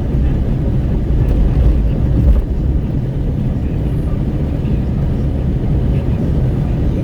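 Wind buffeting through an open window of a moving Renault Kwid 1.0, mixed with tyre and road noise at highway speed: a steady deep rumble that swells slightly a couple of seconds in.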